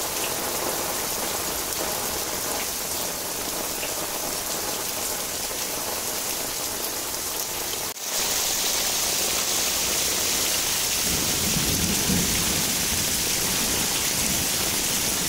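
Heavy rain falling steadily as a dense hiss. It breaks off for a moment about eight seconds in and returns louder and hissier, with a low rumble joining it near the end.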